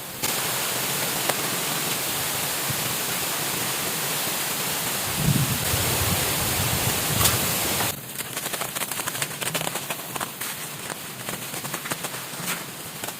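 Steady rushing of water, loud and even, that stops abruptly about eight seconds in, leaving a quieter background of scattered light ticks and taps.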